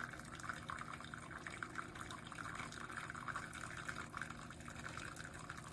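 Keurig K-Mini single-serve brewer dispensing hot water, with no pod in it, into a mug: a steady trickling stream of liquid filling the cup.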